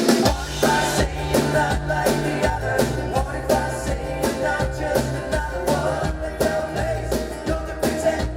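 Bluegrass-style string band playing a rock song live at full volume, most likely an instrumental break: a driving drum beat, a bass line stepping between notes, and fast picked strings over it.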